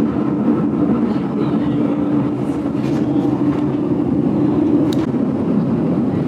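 GoldenPass Belle Époque train running along the track: a steady rumble with a low hum, and a single sharp click about five seconds in.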